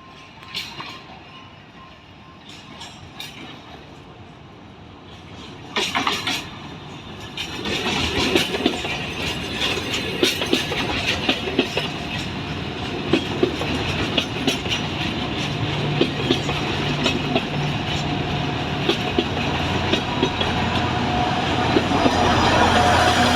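Alishan Forest Railway narrow-gauge train approaching and running past, its wheels clicking rapidly over the rail joints. It grows louder from about eight seconds in, with a low engine hum in the second half.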